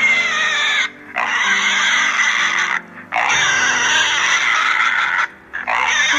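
Pigs oinking in four long calls with short breaks between them, over a backing of steady music.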